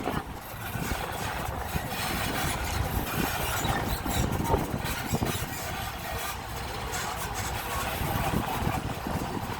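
Disneyland Resort tram running, with a steady mix of engine and road noise heard from aboard.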